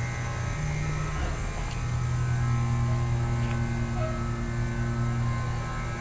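York commercial condensing units running with a steady electrical hum from their compressors and condenser fan motors. One unit's condenser fan has just been brought back on by its pressure-operated low-ambient control, which cycles the fan to hold head pressure in cold weather.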